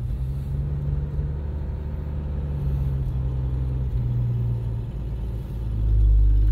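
1965 Plymouth Barracuda's 225 slant-six engine running under way, heard from inside the cabin as the car is driven slowly. Its pitch steps a couple of times, and it gets louder and deeper near the end.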